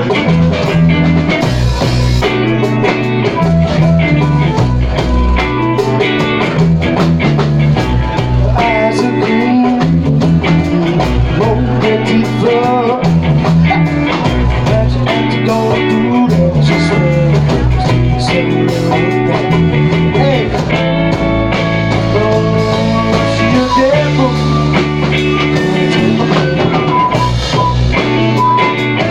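Blues-rock band music: electric guitar over bass and drums, playing steadily with some bending guitar lines.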